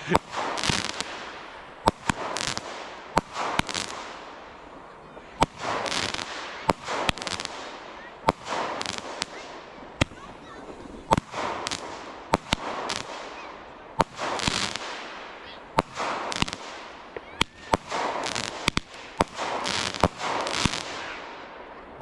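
Fireworks going off in quick succession: sharp bangs about once a second, each followed by a fading crackle.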